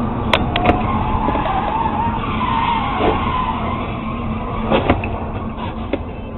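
Car tyres squealing in a skid for about two and a half seconds over steady road noise. Several sharp knocks come near the start, about three seconds in, twice close together near five seconds, and once near six.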